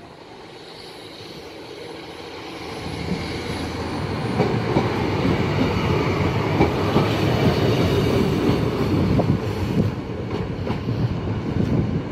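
Diesel multiple unit running past along the platform: engine and wheel noise build up about three seconds in, with the wheels clicking over rail joints while it passes closest, then easing off slightly near the end.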